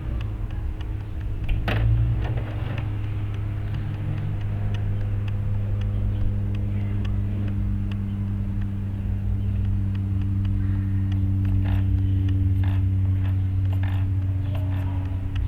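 RC helicopter running with a steady low droning hum from its rotors and drive, the pitch holding even, with scattered faint ticks.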